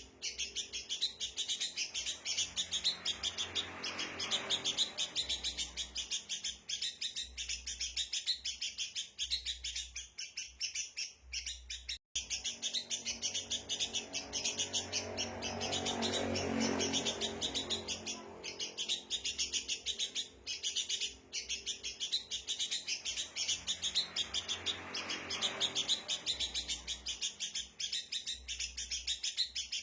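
Sooty-headed bulbuls (kutilang) chattering rowdily, dense overlapping chirps without a pause. This is the kind of noisy calling played as a lure to draw wild birds in. The calls break off for an instant about twelve seconds in.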